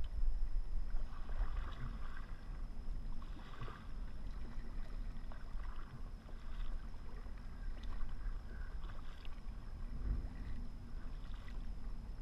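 Kayak paddle strokes splashing in the water in a slow, uneven rhythm, over a steady low rumble.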